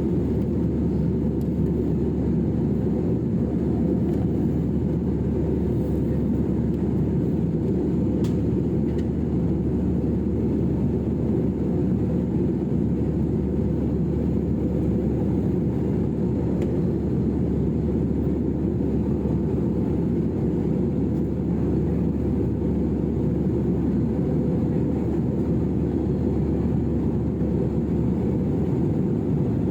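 Steady low rumble of an airliner in flight, heard inside the passenger cabin: jet engine and airflow noise, holding an even level throughout.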